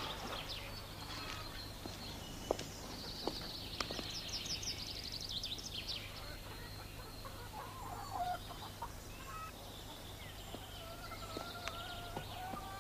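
Birds calling: a quick run of high chirps a few seconds in, then lower, wavering calls near the end, over a steady low hum.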